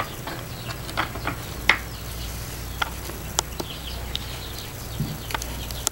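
Faint bird chirps over a steady low hum, with scattered sharp little clicks and taps, about half a dozen in all.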